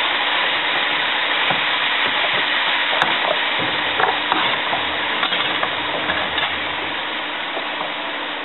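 Minced ginger sizzling in hot oil in a wok, bubbling with sugar and rice cooking wine just added. A spoon stirs it, clicking and scraping on the pan a few times.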